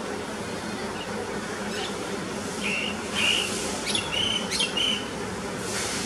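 Several short, high bird notes from about two and a half seconds in to near the end, mixed with a few sharp clicks, over a steady background hum and hiss.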